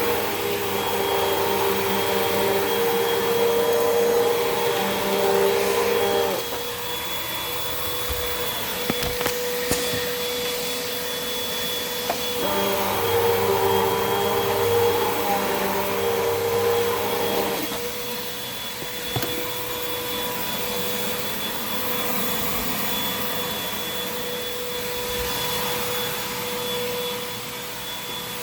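Hoover WindTunnel 2 Rewind upright vacuum cleaner running steadily with a motor whine. Its tone turns fuller and louder twice, each time for about five seconds.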